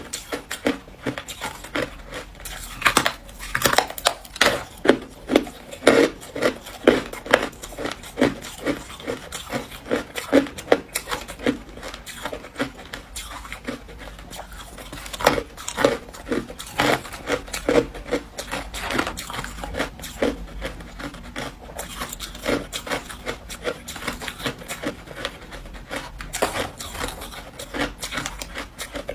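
Ice being chewed in the mouth: a steady run of sharp crunches, about two to three a second, some much louder than others.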